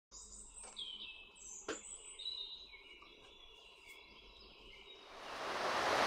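Birds calling in high whistled and sliding notes, with two sharp clicks in the first two seconds. Near the end a rush of noise swells up and becomes the loudest sound.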